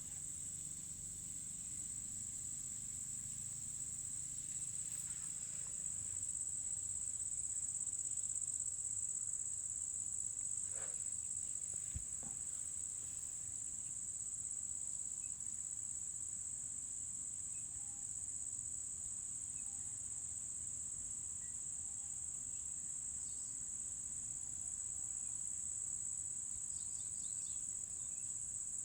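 Crickets trilling in one continuous high-pitched tone, with faint low rumble beneath.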